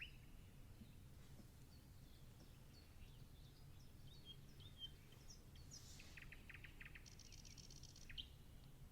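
Faint birdsong: scattered high chirps, a short rapid trill about two-thirds of the way in and another chirp near the end, over a low steady background rumble.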